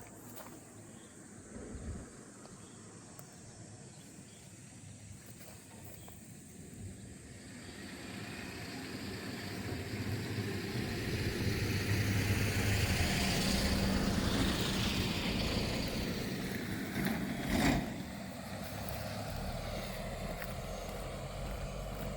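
A motor vehicle passing by, growing louder over several seconds and then fading, with a short sharp knock near the end.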